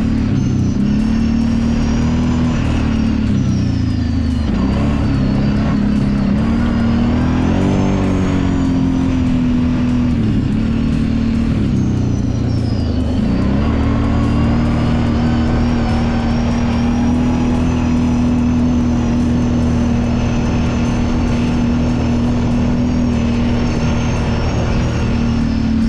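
Kawasaki Brute Force 750 ATV's V-twin engine running under changing throttle. Its pitch dips and rises several times in the first half, then holds steady through the second half.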